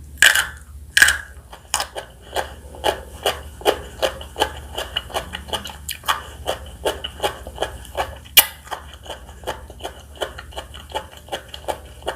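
Close-up chewing of crispy spicy fried chicken: a steady run of crunches, about two or three a second, with two loud bites near the start.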